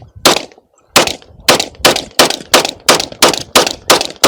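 A firearm fired rapidly in semi-automatic fire: two shots near the start, then after a short pause a quick, even string of about ten shots at three to four a second.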